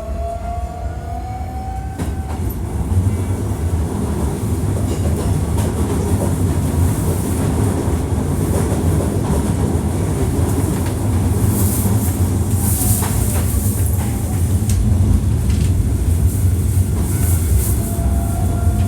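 Hankyu 1300 series electric train running, heard from inside the car: a motor whine rises in pitch for the first two seconds or so as it accelerates, then a steady rumble of wheels on rail with the clickety-clack of rail joints. The whine comes back faintly near the end.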